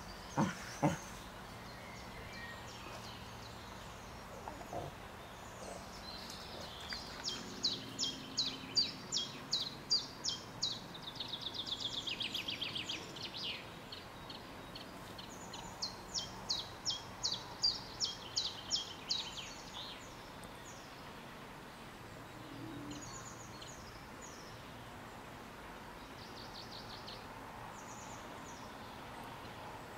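A songbird singing two long phrases of quick high notes, the first running into a fast trill, then a few short snatches later, over a steady background hiss. Two short sharp sounds come right at the start.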